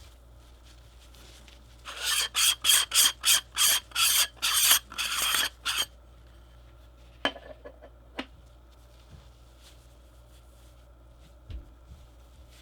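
Packaging rubbed or scraped by hand in a quick run of about a dozen rasping strokes lasting under four seconds. These are followed by a sharp click and a few small taps.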